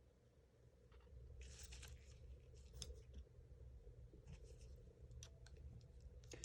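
Faint scattered clicks and rustling from small parts and tools being handled during work on an airsoft rifle's gearbox, starting about a second in.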